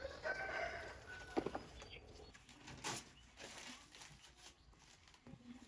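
Faint bird calls, with a couple of sharp knocks.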